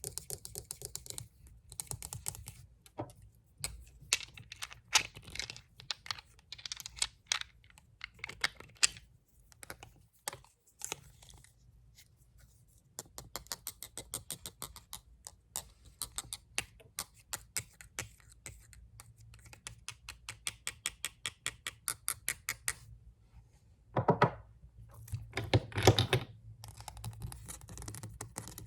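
Fast tapping on glass nail polish bottles: long runs of quick, sharp clicks broken by short pauses. Near the end there are two louder, longer sounds, likely scratching on the bottles.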